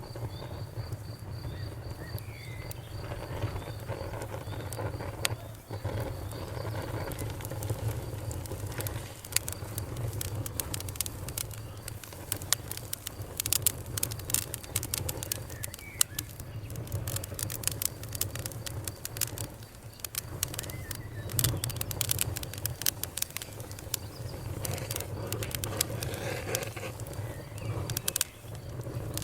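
A fire crackling, with many sharp pops and snaps that come thicker in the middle and again near the end, over a steady low rumble.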